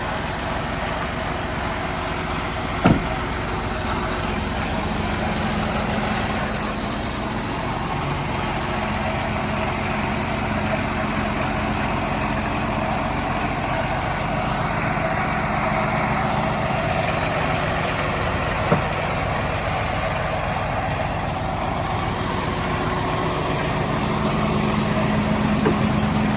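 Diesel semi-truck engine running steadily at raised idle while it warms up after a cold morning start, with two brief clicks, one about three seconds in and one near the middle.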